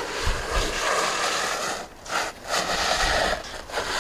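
Strong wind blowing and buffeting the microphone in a snowstorm: a steady rushing hiss with uneven low rumbling gusts that briefly drop away twice.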